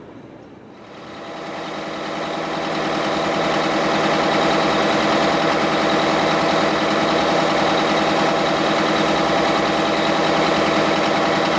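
Truck engine running at a steady speed, swelling up over the first few seconds and then holding level.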